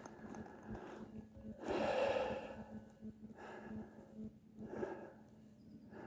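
A person breathing heavily while climbing through snow, with one louder exhale about two seconds in and fainter breaths after it.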